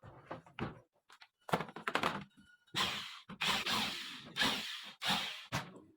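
Handling noises: a run of short knocks and clunks, then several longer rustling or scraping noises of about half a second each.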